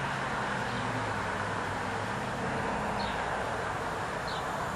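Steady wind noise in strong, gusty wind, with a faint low hum underneath and a few faint high chirps.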